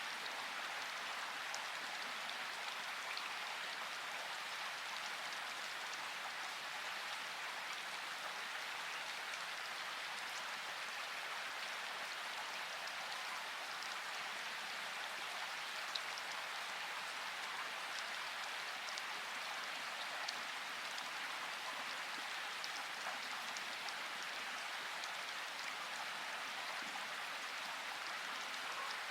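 Steady rain falling, a constant even patter with a few sharper single drop taps now and then.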